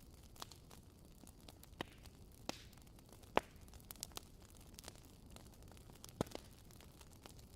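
Fire in a fireplace crackling: irregular sharp pops and snaps over a soft low hiss, the loudest pop about three and a half seconds in.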